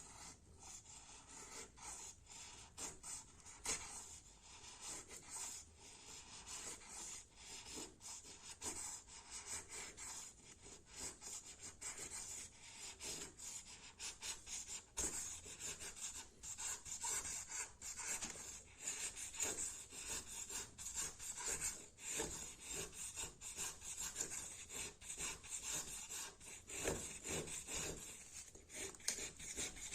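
Fixed-blade knife scraping and shaving wood in quick repeated strokes, a continuous run of rasping cuts.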